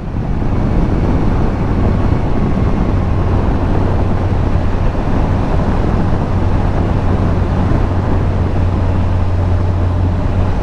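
Yamaha FZS1000 inline-four motorcycle engine running at a steady cruise, mixed with wind and road noise. A steady low engine drone settles in about three seconds in.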